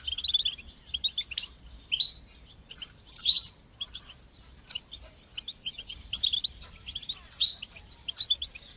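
European goldfinch singing: a fast, continuous twitter of short, high chirps, broken every half second to a second by louder trilled phrases.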